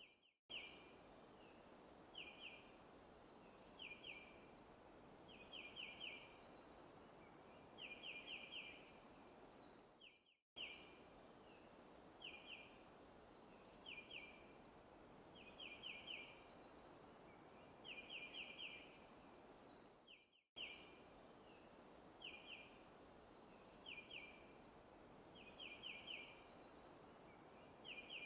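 Faint looped forest ambience: a bird chirping in short high phrases of one to four quick notes, every second or two, over a soft steady hiss. The loop restarts about every ten seconds with a brief gap of silence.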